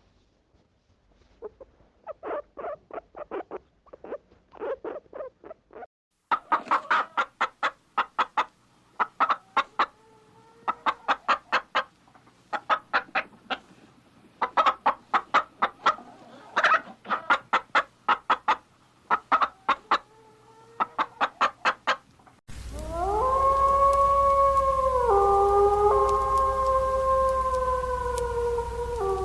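Chickens clucking in rapid runs of short notes, softer at first, then loud with an occasional drawn-out squawk. Near the end, a long, drawn-out call at steady pitch that steps down partway through.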